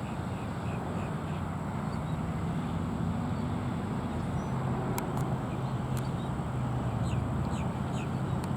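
Outdoor ambience: a steady low mechanical hum, with small birds chirping faintly and a few sharp clicks in the second half.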